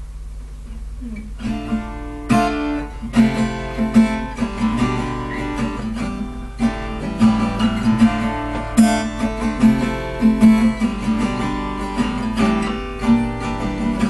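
Acoustic guitar strummed in a steady rhythm of chords, starting about a second and a half in, as the introduction to a song.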